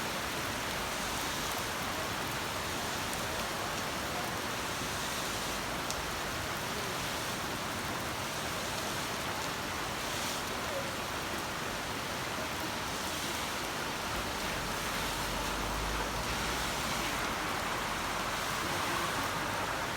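Heavy rain falling steadily, an even hiss, with a short low rumble about three-quarters of the way through.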